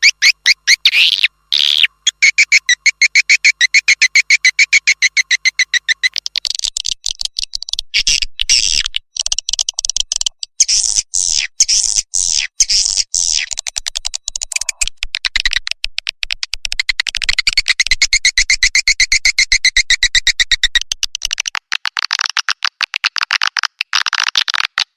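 Recorded swiftlet call lure: fast, continuous runs of high chirps and clicks, many per second, shifting in pitch every few seconds. It is the kind of track played in swiftlet nesting houses to attract the birds.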